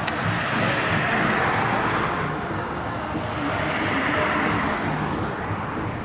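Passing road traffic: two swells of vehicle and tyre noise, one building about a second in and another a few seconds later, each fading away.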